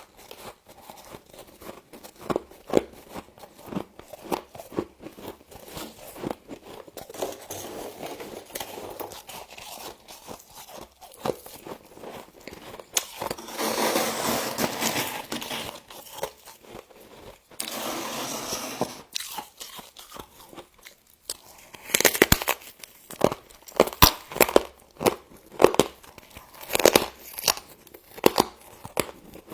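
Close-up crunching and chewing of frost, many sharp crunches in a row. Two longer grinding stretches come in the middle, and the crunches grow louder and denser over the last several seconds.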